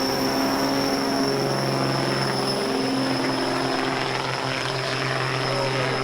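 Semi truck's diesel engine running hard at a steady high speed, with a steady high-pitched whine over the engine note.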